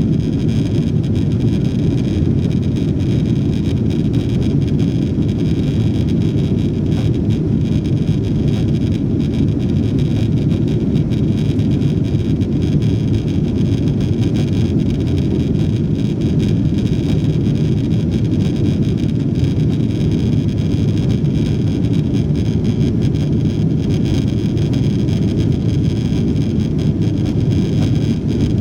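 Steady cabin noise of a Boeing 777-200 airliner in flight, engines and airflow heard from inside the cabin: a constant low rush with a faint, even high whine above it.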